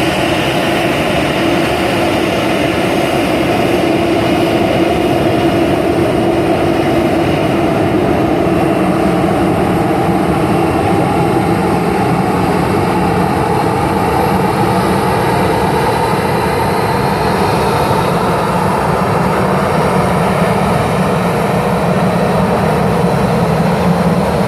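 Jet engines of a Boeing 737 BBJ3 (CFM56 turbofans) running with a loud, steady noise, with a tone that slowly rises in pitch.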